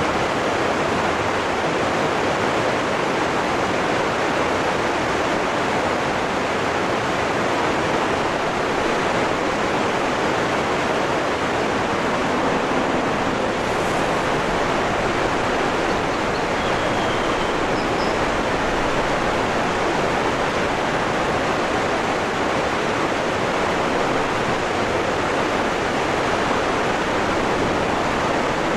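Waterfall rushing steadily, a dense even roar of falling water, with a couple of faint high bird chirps about two-thirds of the way through.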